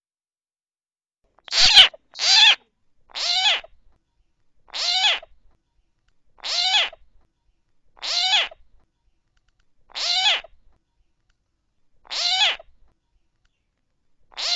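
Recorded coucal (bìm bịp) calls played as a bird-trapping lure: a series of short calls, the first two close together, then one about every one and a half to two seconds.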